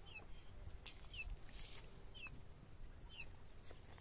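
Faint bird chirping: short, high chirps that fall in pitch, about one a second.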